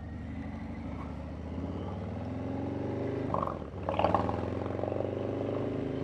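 Harley-Davidson Milwaukee-Eight 114 V-twin running through a Vance & Hines stainless 2-into-1 upsweep exhaust, accelerating under way with its pitch climbing steadily. About three and a half seconds in there is a brief drop as it shifts up, and then it pulls and climbs again.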